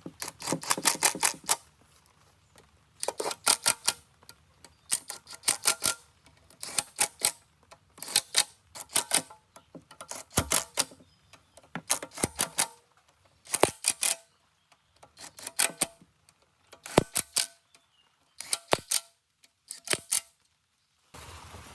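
Rapid sharp clicks or taps in short bursts, about a dozen of them, one burst every second and a half to two seconds.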